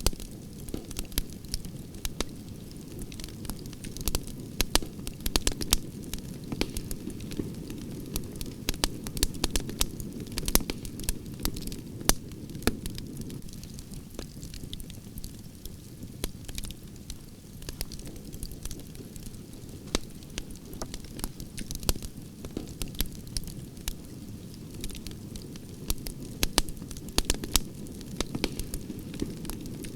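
Campfire of burning branches crackling, with many sharp irregular pops and snaps over a steady low rush of flames.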